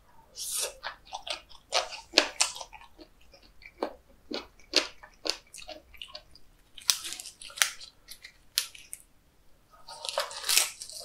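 Close-up mouth sounds of chewing raw seafood sashimi: a string of wet smacks and clicks. About ten seconds in, a denser crunching comes in as a lettuce wrap is bitten into.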